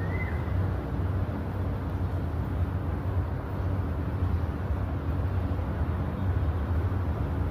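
Steady low outdoor rumble of ambient noise, with one brief high chirp just after the start.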